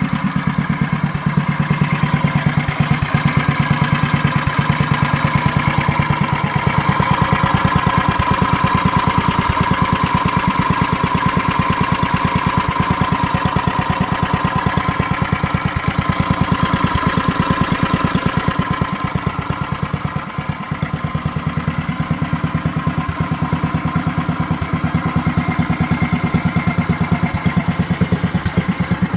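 Tecumseh H50 single-cylinder four-stroke engine on a 1970 Trail Horse mini bike, running steadily at low speed with even firing pulses. It eases off briefly about two-thirds of the way through, then picks up again.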